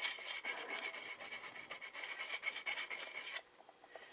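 Hand file rasping in quick strokes across a raised metal seam on a Harley-Davidson Street 750's stock exhaust silencer, with a thin ringing from the metal. The seam is being filed flat so the end cap will slide back on. The filing stops about three and a half seconds in.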